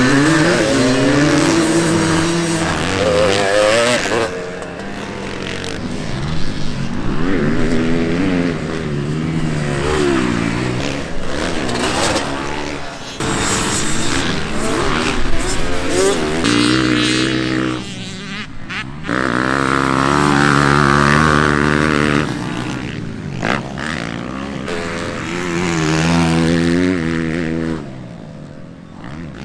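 Vintage motocross dirt bikes riding the track, engines revving up and down through the gears again and again as they accelerate and back off. The engines drop away briefly near the end.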